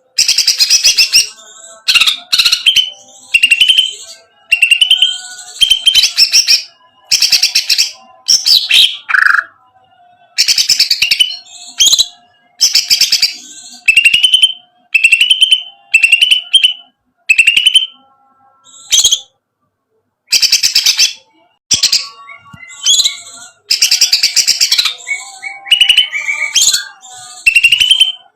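Greater green leafbird (cucak ijo) singing a loud series of short, rapid chattering phrases with upward-slurred whistled notes, about one phrase a second, with brief pauses between them.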